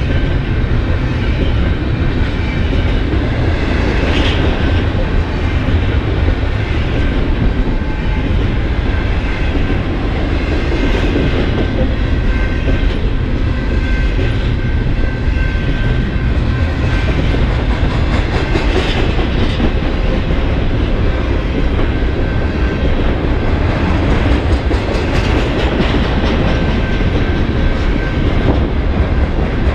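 BNSF double-stack intermodal freight train passing close by: a steady heavy rumble of the well cars' wheels on the rail, with clickety-clack over the rail joints and occasional louder clacks.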